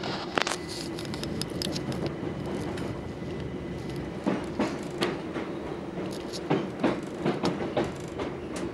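Southern Class 377 electric multiple unit heard from inside the carriage while running, a steady rumble with irregular clicks and knocks of the wheels over rail joints and points, more frequent in the second half.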